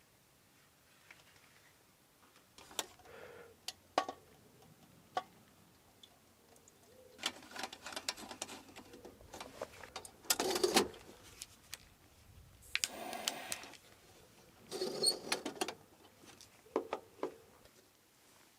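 Irregular clicks, knocks and short bursts of rustling, like things being handled close by; the loudest rustles come about halfway through and again near the end.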